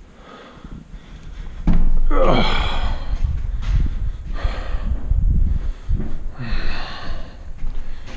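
A man breathing hard and grunting with effort as he carries a heavy wooden mantel beam: a series of loud gasps and grunts, one a long falling grunt about two seconds in, over a low rumble.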